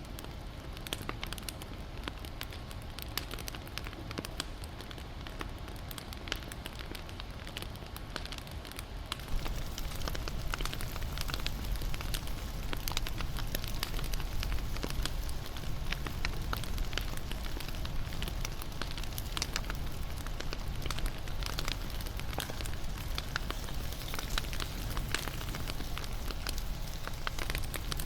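Wood fire crackling and popping with a steady low rumble of flame; it gets louder and fuller about nine seconds in.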